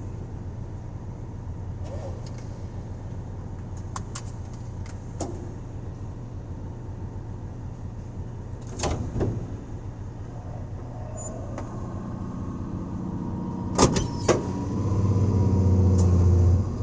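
1984 Dodge van driving: a steady engine and road drone with a few sharp knocks and rattles. About three quarters of the way through, the engine climbs under heavy throttle, is loudest near the end, then drops off suddenly. The owner is testing whether it misfires at wide-open throttle.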